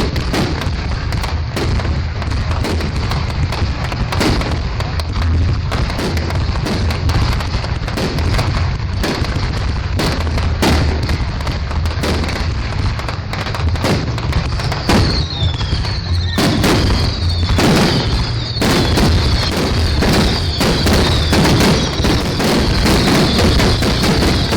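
Fireworks display going off in a dense, continuous barrage of bangs and crackles. From about midway, repeated high whistling tones join the barrage.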